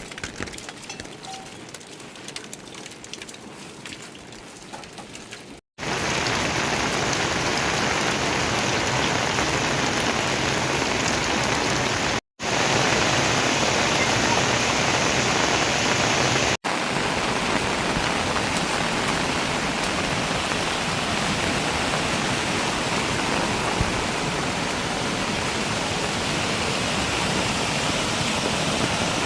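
Heavy rain falling steadily, a dense even hiss. The first few seconds are quieter, with scattered drops, before the downpour comes in loud. The sound cuts out sharply and resumes a few times.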